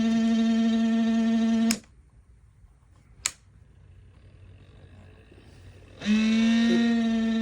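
Ultrasonic cool mist humidifier buzzing with a steady electrical hum that cuts off with a click about two seconds in. Another click comes a second later, and the hum starts again near the end, wavering in pitch at first.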